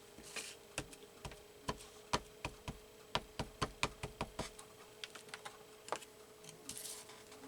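A quick, irregular run of light, sharp clicks and taps, about three a second, as paper collage pieces are worked by hand, with a brief paper rustle at the start and another near the end.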